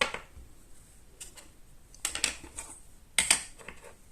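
Small clicks and taps from crafting tools and paper pieces being handled on a tabletop, in a few short clusters, the loudest near the end.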